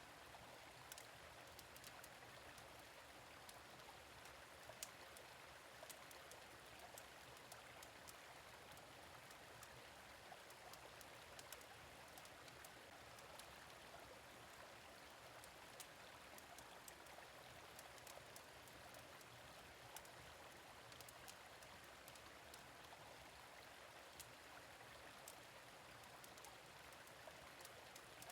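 Faint, steady gentle stream running, with scattered sharp crackles from a fire pit.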